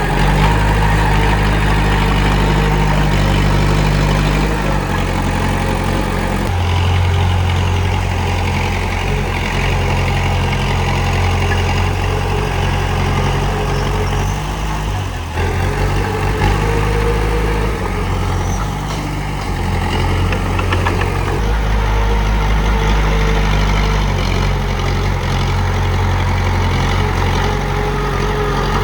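Komatsu D31P crawler bulldozer's diesel engine running as the machine works, its note stepping up and down several times as the load changes.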